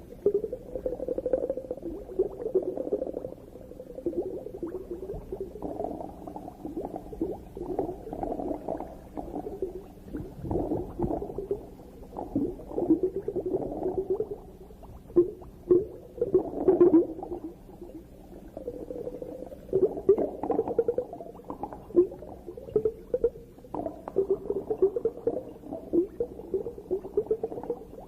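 Underwater bubbling and gurgling in irregular bursts, some louder clusters standing out now and then.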